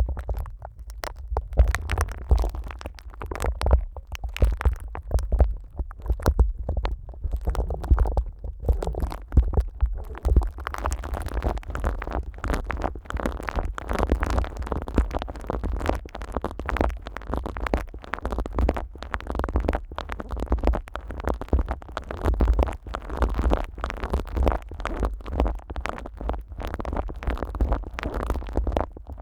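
Plastic cling film wrapped over a Neumann KU100 dummy-head microphone being rubbed and crinkled by rubber-gloved hands. It makes close, continuous crackling and rustling over a low handling rumble, and grows denser about a third of the way in.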